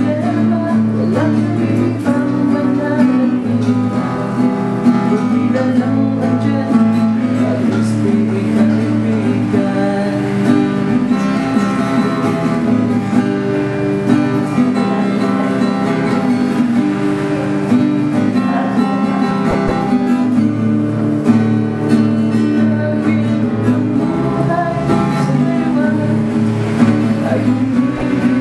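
Acoustic guitar music, strummed and plucked, playing continuously.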